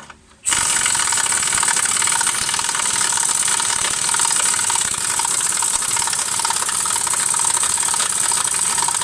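Power impact wrench hammering continuously on an 18 mm mounting bolt, starting suddenly about half a second in. The bolt is not coming free, which the mechanic puts down to a nut on the top side that feels like it is turning with it.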